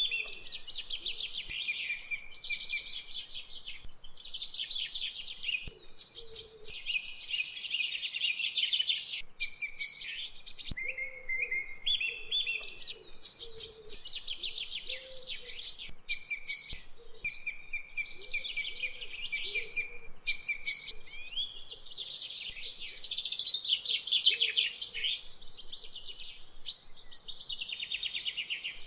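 Songbirds chirping and singing almost without pause, fast trills and twitters overlapping one another.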